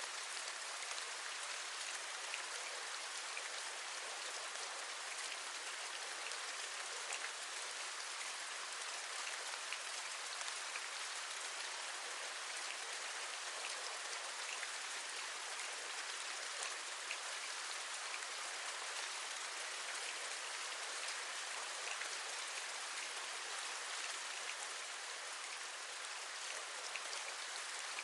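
Steady rain, an even hiss with many small scattered drop taps.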